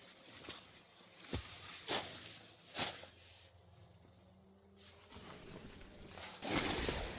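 Camping gear being handled: rustling with several sharp clicks and knocks, and a longer, louder rustle near the end.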